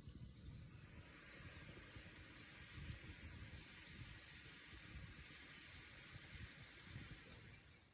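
Faint, steady hiss of a wood fire burning, with soft, irregular low crackling.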